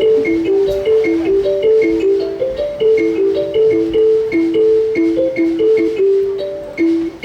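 A tuned, struck-sounding melodic instrument plays a short repeating riff of clear single notes, about three or four a second, while its sound is being checked.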